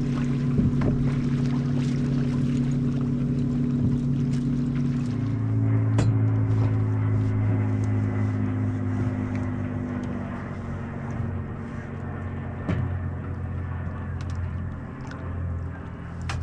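Boat motor running steadily at trolling speed, its hum dropping a little in pitch about five seconds in, with a few light knocks and clicks on the boat.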